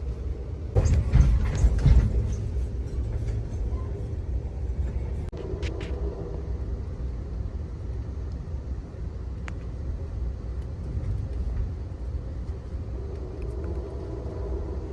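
Amtrak Auto Train passenger car rolling along the track: a steady low rumble, with a louder burst of clattering and knocking about a second in that lasts a second or so.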